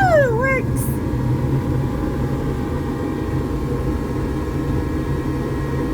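A furnace running after repair: a steady rushing of blower air over a low hum. A brief tone glides up and back down in the first half second.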